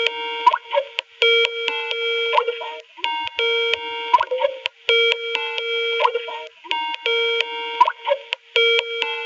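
Skype call ringtone: a short electronic melody of pure steady tones, repeating every few seconds while the call rings unanswered.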